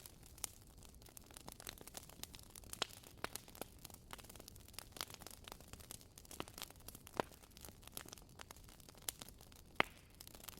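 Wood fire crackling: irregular sharp pops and snaps over a faint hiss, with two louder pops in the second half.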